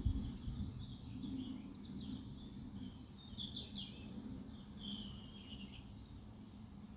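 Small birds chirping and twittering in quick bursts over a steady low rumble, with a brief low thump at the very start.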